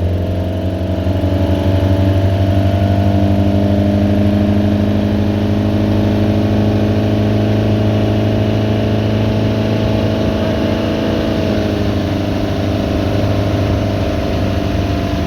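A 1988 Bayliner Capri's 3.0-liter four-cylinder sterndrive engine running at a steady speed, with an even drone that barely changes pitch.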